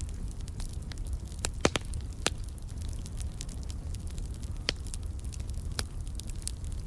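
Wood fire in a fireplace crackling: a steady scatter of small snaps with a few louder pops, over a low, steady rumble.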